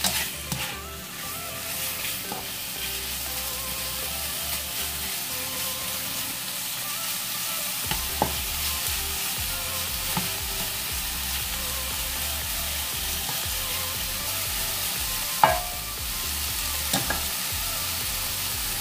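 Pork pieces frying in a hot pan over high heat: a steady sizzle with a few sharp clinks against the pan, the loudest about fifteen seconds in. The pork is lean and renders out little fat.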